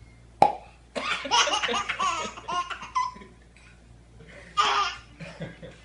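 A single sharp pop, followed by a baby laughing in a run of belly laughs.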